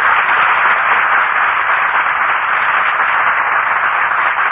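Studio audience applauding, a steady even clatter of many hands.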